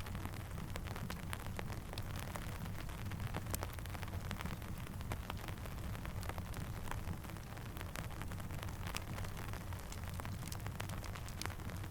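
Steady rain over a low rumble, with scattered sharp crackles and pops from a campfire.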